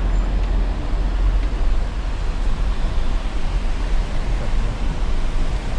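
Steady low rumble and road noise of a car driving.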